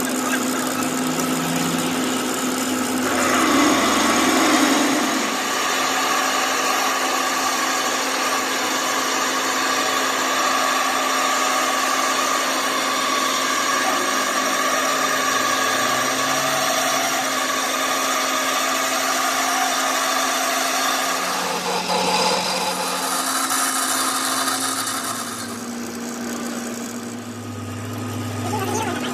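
A power machine in a machine shop runs steadily with a motor whine and a hiss, easing off somewhat near the end.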